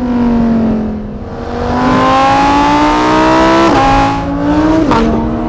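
Lamborghini Huracán EVO's 5.2-litre V10 accelerating hard, its pitch climbing through the revs. It drops back twice as the seven-speed dual-clutch gearbox upshifts, about four and five seconds in.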